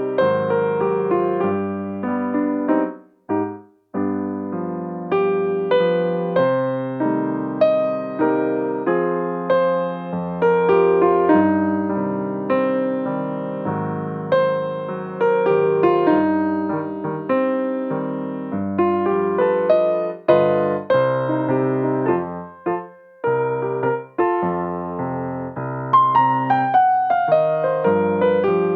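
Piano playing slow chords and melody, each note ringing and dying away, with a short break about three seconds in.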